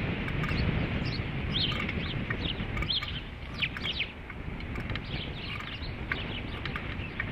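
Osprey calling: a string of short, falling whistled chirps, thickest in the first half and fainter later, over wind rumbling on the microphone.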